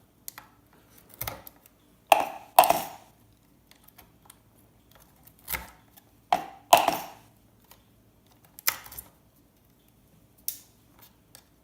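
Irregular sharp clicks and clinks of a metal tool prying small components off a circuit board, about nine in all, a few of them with a brief metallic ring.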